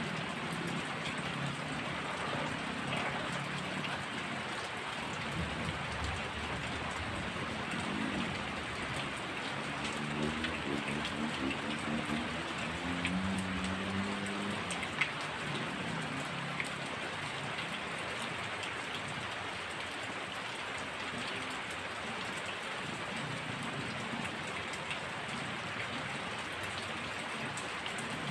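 Heavy rain falling steadily, with a few sharp single drip ticks in the middle. A faint low pitched sound comes and goes under the rain for a few seconds around the middle.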